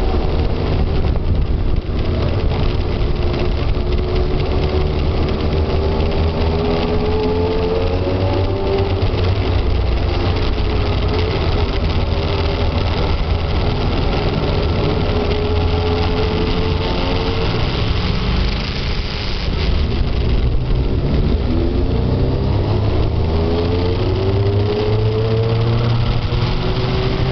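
Motorcycle engine running on the move, with a steady low rumble and its pitch rising and falling several times as the throttle and gears change.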